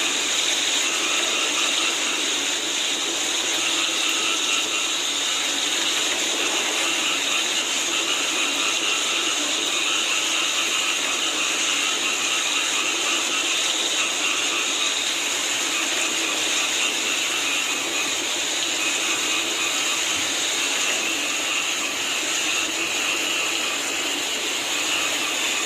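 Steady rain falling, with a dense, unbroken chorus of frogs calling.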